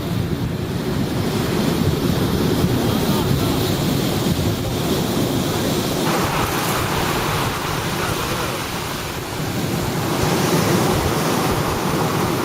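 Strong wind rushing over the microphone, a loud steady roar with heavy low buffeting; the hiss gets brighter about halfway through.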